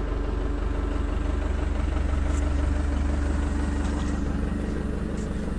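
Cat 312CL excavator's diesel engine running steadily, swelling a little in level about two to three seconds in.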